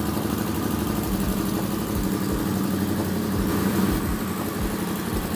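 Triumph Bobber 1200cc parallel-twin motorcycle engine idling steadily, with an uneven low thump to its exhaust beat.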